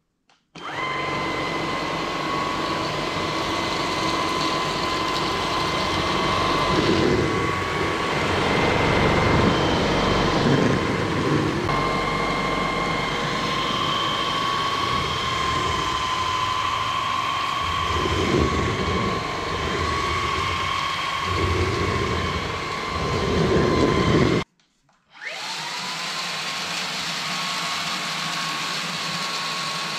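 Samsung Jet 95 CompleteClean cordless stick vacuum running, its HexaJet motor giving a steady high whine with rougher, noisier stretches as the head is worked. About 24 seconds in it cuts off abruptly, then switches back on, the whine rising in pitch as the motor spins up.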